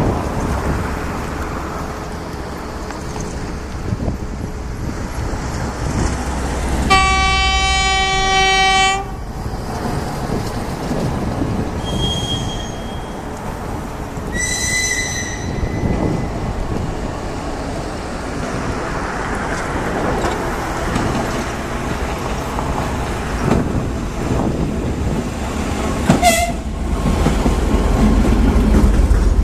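2M62U diesel locomotive arriving with a suburban train: the low rumble of its two-stroke diesel engines grows louder as it approaches. Its horn sounds once for about two seconds around seven seconds in, and a few short high tones follow later.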